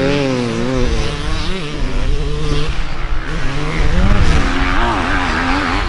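Dirt bike engines revving, the pitch climbing and dropping again and again as a bike accelerates and shifts, with a second engine running at a lower, steadier pitch underneath.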